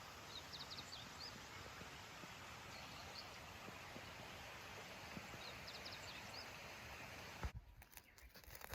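Faint outdoor ambience with a steady hiss, and a small songbird singing the same short, quick high phrase twice. Near the end a single knock, after which the background hiss drops away.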